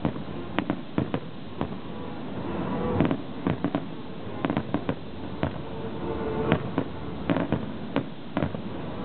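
Fireworks display going off: a rapid, irregular string of sharp bangs and crackles over a steady rumble.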